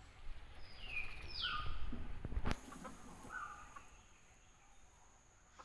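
A few short bird calls, one sweeping quickly in pitch about a second in, with a sharp knock about two and a half seconds in and a low rumble before it.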